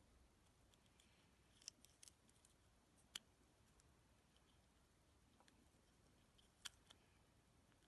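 Faint, scattered small clicks and taps from handling a car remote key fob during repair, about six in all, a second or more apart.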